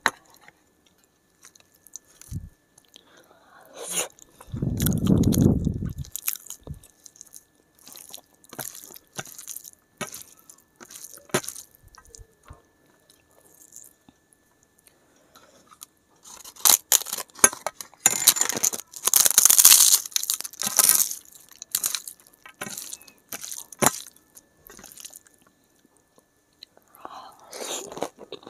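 Close-miked eating by hand: chewing of rice and curry with many short crisp crunches, typical of papad crumbled into the rice, and a longer run of loud crunching a little past the middle. A low muffled rumble stands out about five seconds in.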